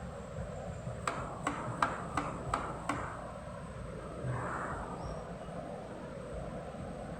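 Six sharp clicks in quick succession, about three a second, followed a little later by a brief rustle or scrape over steady background hiss.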